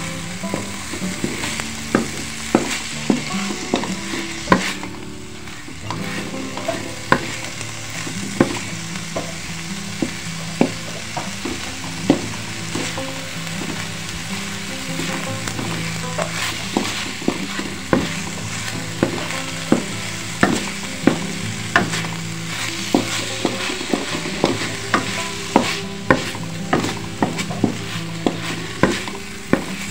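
Wooden spatula stirring and scraping a sizzling croquette filling in a wok, with frequent sharp taps of the spatula against the pan. The filling is being fried down until it is dry.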